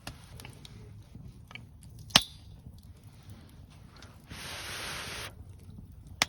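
Eating at a camp meal: a sharp click a couple of seconds in, about a second of steady hiss later on, and another click near the end.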